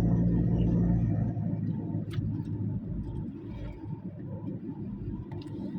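Car engine and road noise: a steady low hum that turns into a rougher, quieter rumble about a second in, with a sharp click about two seconds in.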